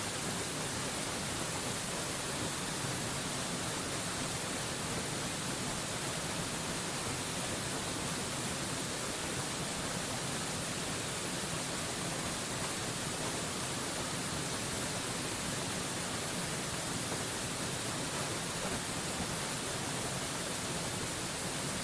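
Waterfall white noise: a steady, even rush of falling water with no breaks or changes, strongest in the hiss.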